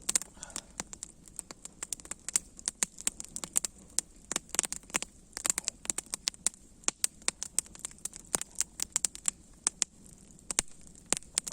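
Campfire crackling: irregular sharp pops and snaps, several a second, over a faint hiss.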